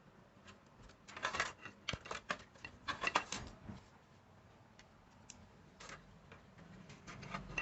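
Quick clicks and rattles of small hard objects being handled, bunched together from about a second in to three and a half seconds in, then a few scattered ticks.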